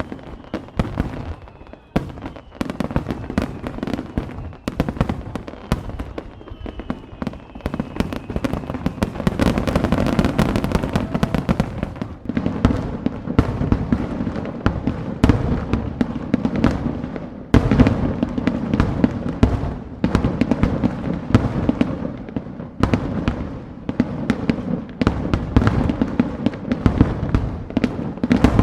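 Fireworks bursting in a rapid, dense barrage of bangs and crackles over a continuous low rumble, with a few faint falling whistles in the first seconds.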